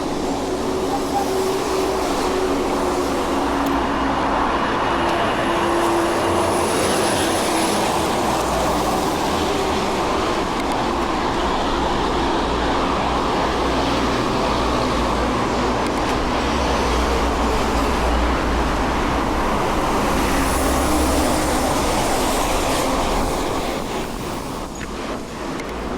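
Steady rumbling road noise from a moving bicycle: tyres rolling on the road and wind buffeting a small action camera's microphone. The level drops slightly near the end, with a few light clicks.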